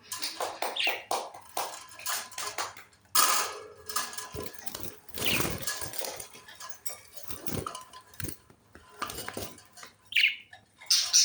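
A pet budgerigar held in the hand, scuffling and flapping its wings in irregular bursts, with a few short chirps.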